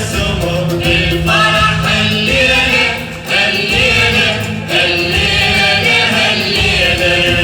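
A choir singing a song together with instrumental accompaniment and steady hand percussion, with a brief dip in loudness about three seconds in.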